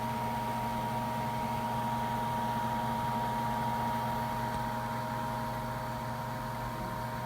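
Gigabyte GeForce GTX 970 Twin Turbo OC graphics card's bi-directional fan running at full load, an even rush of air with a steady buzz of several held tones on top. The buzz is the annoying noise typical of this card under load.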